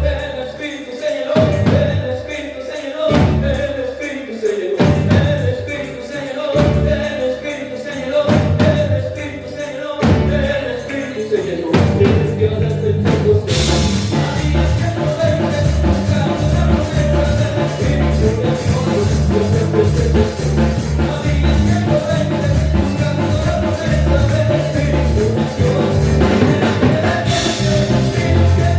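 Worship band music with drums. For the first twelve seconds or so it is slow, heavy drum and bass hits about every second and a half; then the full band comes in with cymbals and keeps a steady beat.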